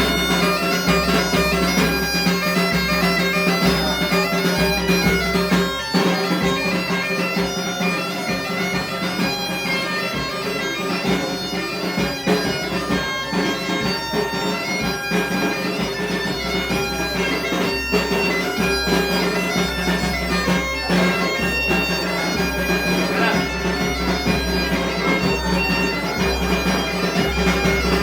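Galician bagpipe (gaita) playing a tune over its steady drone, with a bass drum beating along. The drum drops out for several seconds partway through, then comes back in.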